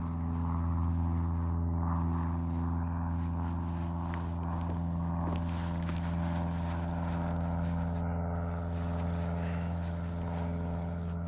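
A steady, low mechanical drone of an engine or motor running at a constant pitch, with a few faint ticks over it.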